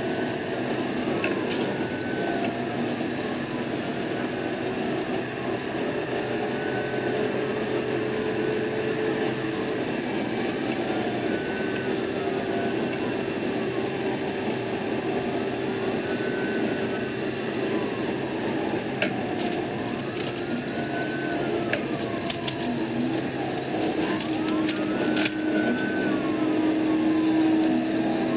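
Police siren wailing, its pitch rising and falling about every three to four seconds, over steady engine and road noise from the pursuing patrol car. A few sharp clicks come in the second half.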